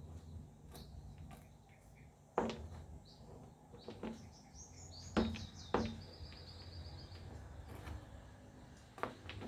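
Four sharp knocks, about 2.5, 5, 6 and 9 seconds in, over a low steady hum, with a brief run of high bird-like chirps between the middle two.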